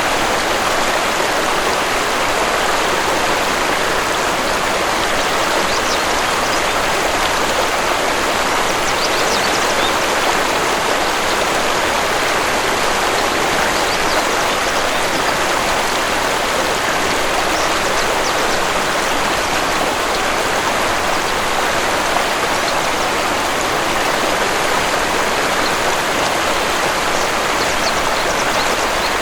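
Waterfall pouring steadily: a constant, even rush of falling water. Faint short high bird chirps come through now and then.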